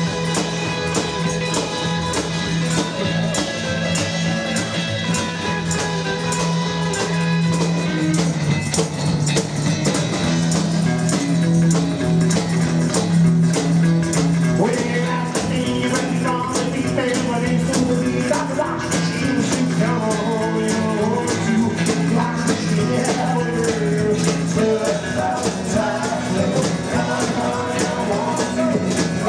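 Live rockabilly band playing: electric guitar, double bass and drums with a steady beat, with singing mostly in the second half.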